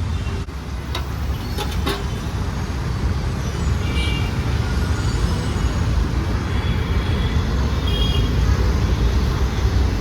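Busy street traffic: a steady rumble of engines with a few short vehicle horn toots, about four seconds in and again near the end.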